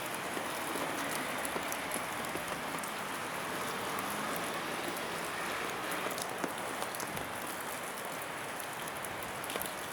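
Steady patter of rain with scattered light drip ticks.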